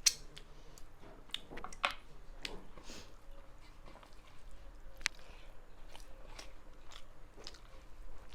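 A person chewing and eating close to the microphone: wet mouth sounds with scattered sharp clicks and small crunches, the loudest click right at the start.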